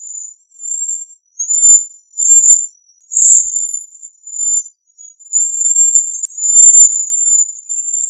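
Cedar waxwing giving its very high, thin whistled calls. There are about seven short calls, then a longer drawn-out one over the last few seconds.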